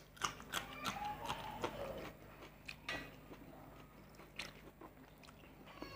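Close-miked eating sounds: biting into a raw green chilli and chewing, with crisp crunchy clicks that are densest in the first second or so and sparser later.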